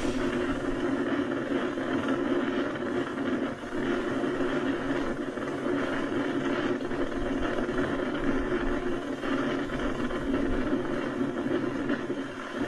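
Aircraft engine running with a steady drone, a strong low hum and no clear change in pitch.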